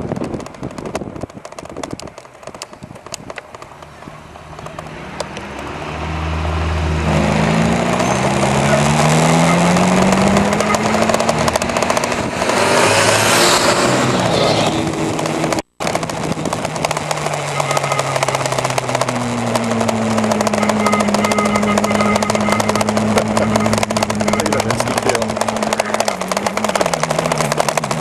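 Riding noise from an e-bike on the road: wind buffeting the microphone, then from about six seconds in a louder stretch of pitched motor and traffic tones that rise and fall with speed. A vehicle rushes past about thirteen seconds in, and the sound cuts out for an instant shortly after.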